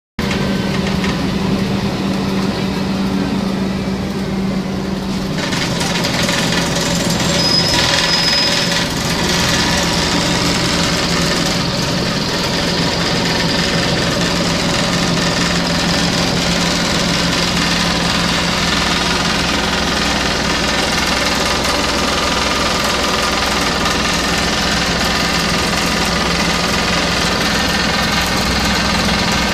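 Scania CN270UB city bus engine running steadily at first, then a fuller rush of engine and road noise from about five seconds in as the bus gets under way and drives on. A brief high whine sounds a few seconds after the change.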